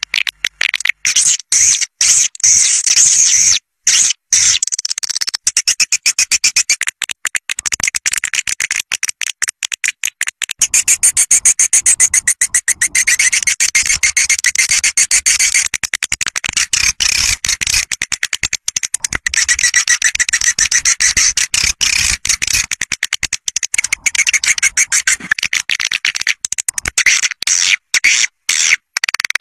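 Swiftlet caller recording: dense, high-pitched twittering of swiftlet calls, fast stuttering chirps with many short breaks, used as a lure to draw swiftlets to a nest house.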